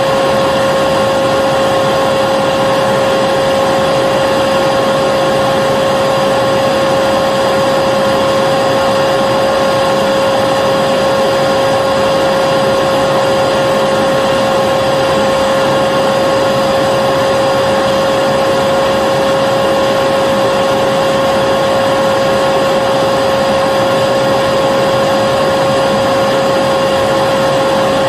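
Vacuum cleaner running steadily with a constant whine over its airflow rush, unchanging throughout.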